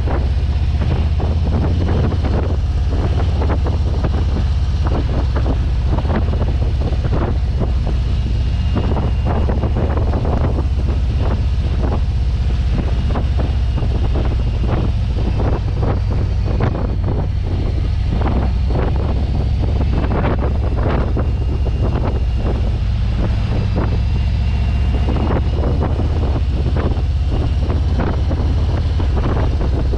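Motorcycle engine running steadily while riding, under heavy wind buffeting on the microphone.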